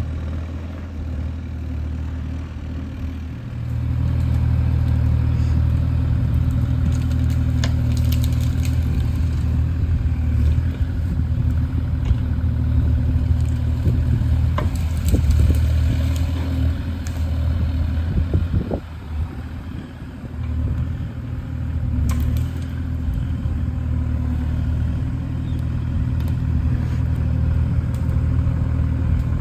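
Diesel engine of a Kubota KX040 mini excavator running under working load. It steps up about three seconds in and eases briefly a little past halfway, with a few scattered knocks and clatters.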